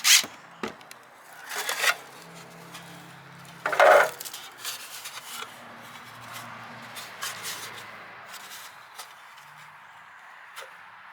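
Sheet-metal downspout sections being handled: three loud, brief scrapes, at the start, about two seconds in and about four seconds in, followed by fainter scrapes and clinks.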